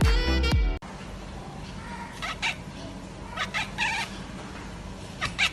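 Dance music with a steady beat cuts off about a second in; then a cat meows in short cries, three bouts spaced over the next few seconds, over a low steady hum.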